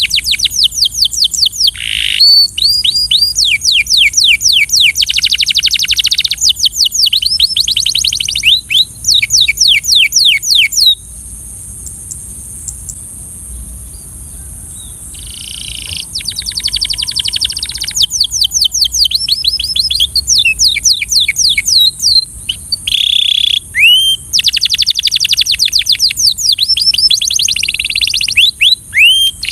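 Canary singing: fast trills of rapidly repeated sweeping notes, changing from one rolled phrase to the next every second or two, with a pause of a few seconds midway through.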